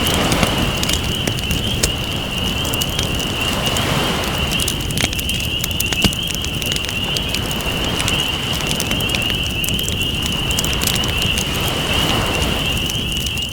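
Campfire crackling with scattered sharp pops, over ocean waves washing in about every four seconds. A steady high-pitched whine sits above them.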